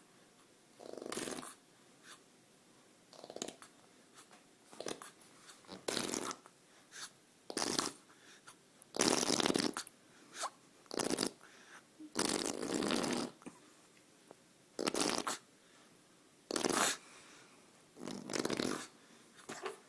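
A four-month-old baby making mouth sounds against a hand, in about a dozen short spluttering bursts with pauses between, the longest lasting about a second.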